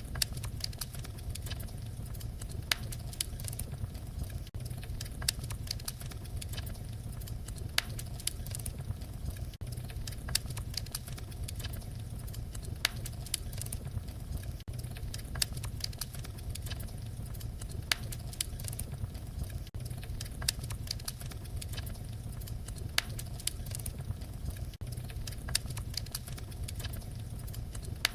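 Wood fire crackling: a steady low rumble of flames with frequent sharp pops and snaps.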